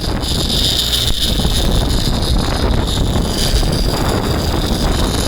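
Boat engine running under wind buffeting the microphone, with a high-pitched hiss over it that eases off about three and a half seconds in.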